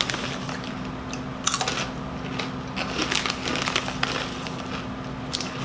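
Crunching of Doritos Dinamita rolled tortilla chips being chewed close to the microphone, in uneven clusters of crisp cracks.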